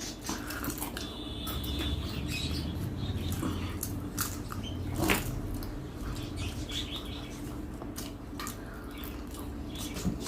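Scattered small clicks and taps of eating and dishes at a dinner table, with a sharper click about halfway through, over a steady low hum.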